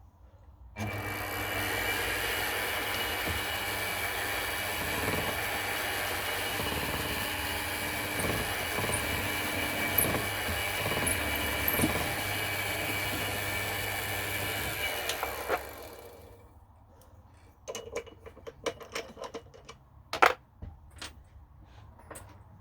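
Mini milling machine running: a steady motor-and-spindle whine with many steady tones starts suddenly about a second in, runs for roughly fifteen seconds, then spins down. A few light knocks and clicks follow.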